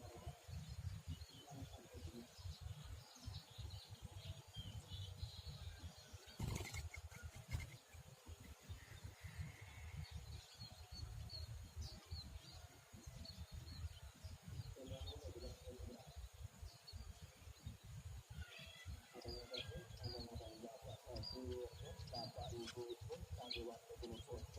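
Faint, scattered high chirps of small wild birds over a steady low rumble. There is one sharp click about six and a half seconds in.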